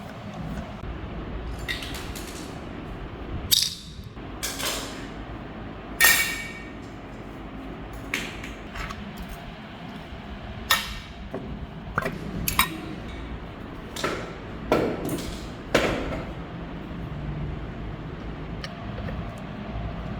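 Irregular knocks and clinks of tools and hard parts being handled in a fan repair, about a dozen over the stretch, a couple of them ringing briefly. A steady low hum sits underneath.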